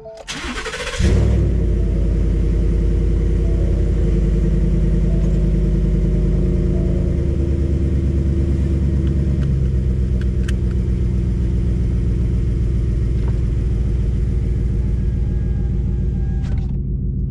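2018 Ford F-150's 5.0 V8 with an MBRP cat-back exhaust cranking briefly and starting about a second in, then idling with a steady rumble, heard from inside the cab with the windows open. The idle speed settles down a little after several seconds.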